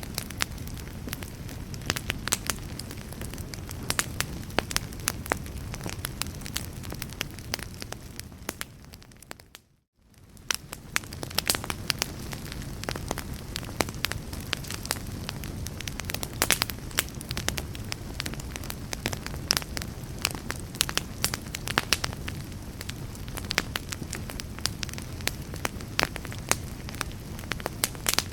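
Fireplace fire crackling, with frequent sharp pops over a steady low rumble. About ten seconds in it fades out to a moment of silence, then fades back up.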